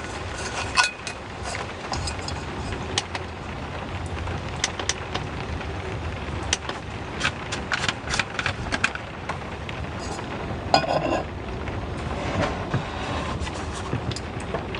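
Heavy rain falling steadily, with many scattered sharp taps and clicks over it and a brief clink about eleven seconds in.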